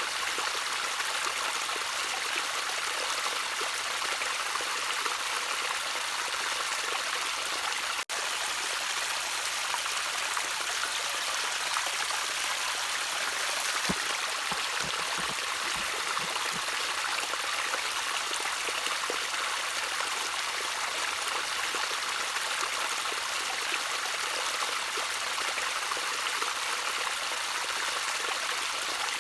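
Gentle trickling water of a small stream, running steadily, with a split-second dropout about eight seconds in.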